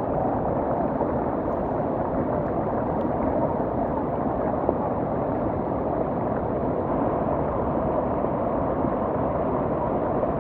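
Flooded mountain river rushing steadily: a dense, unbroken roar of fast water.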